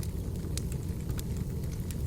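Firewood burning: a steady low rumble of flames with several sharp crackles and pops scattered through it.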